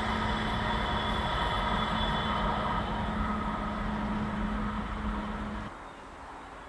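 Express passenger train passing at high speed: a steady rush of wheels on rail with a few whining tones, which drops off suddenly near the end as the last coach goes by.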